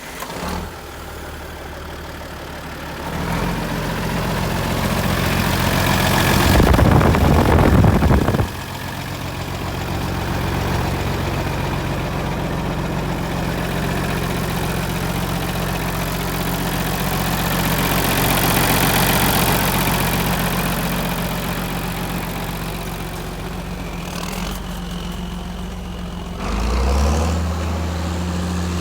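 John Deere 4320 tractor's turbocharged six-cylinder diesel engine running at idle. It gets much louder for about two seconds around seven seconds in, and near the end it picks up speed with a short rise in pitch, then holds there.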